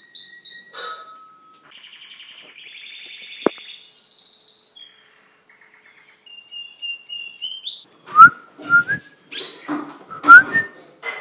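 A caged pet bird singing: varied trills and whistled chirps, then a run of very loud, sharp calls over the last few seconds.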